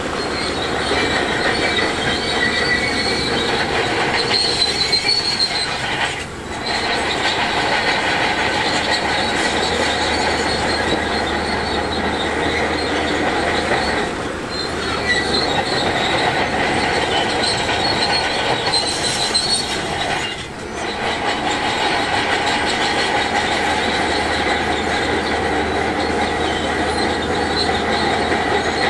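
Heavy earthmoving machinery working: diesel engines running under a continuous metallic squeal and clatter, with brief dips about 6, 14 and 20 seconds in.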